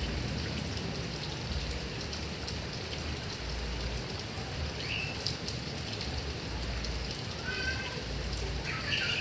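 Heavy rain falling steadily on grass and trees, with a few short high chirps about halfway through and near the end.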